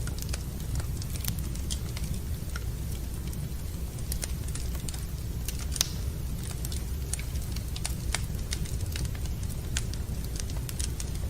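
Wood fire crackling in a fireplace: frequent irregular sharp pops and snaps over a low steady rumble, with one louder pop about six seconds in.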